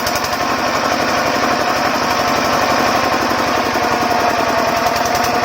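Diesel engine of a water pump set running steadily, a loud and rapid, even chugging of its firing strokes.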